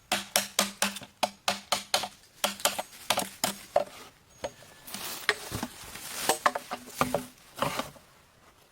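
Rapid knocks of a tool striking bamboo, about four a second, then a rough scraping stretch and a few more strikes that stop near the end.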